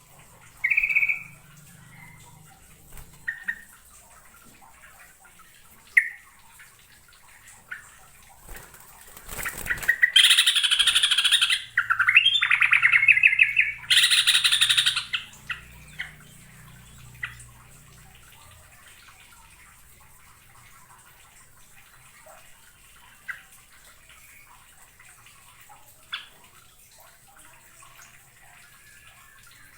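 Yellow-vented bulbul (trucukan) singing: scattered short chirps, then a loud burst of song with a fast trill from about ten to fifteen seconds in.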